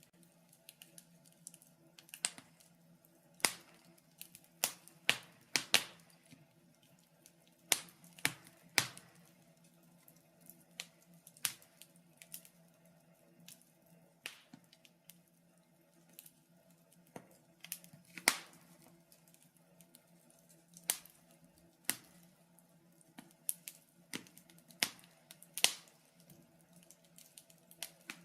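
Wood fire in a fireplace crackling: sharp, irregular pops and snaps, about one a second and unevenly spaced, over a faint low steady hum.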